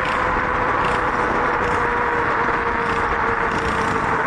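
Riding a 72-volt Tommebike Icon e-bike: steady wind and road rush on a shirt-tucked mic, with a steady motor whine that slowly drops in pitch.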